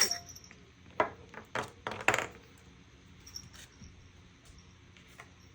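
Small hard objects clicking and clattering against a tabletop, four sharp knocks in the first couple of seconds.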